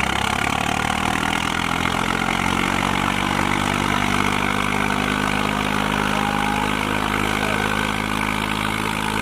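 Diesel tractor engine running steadily at an even pitch.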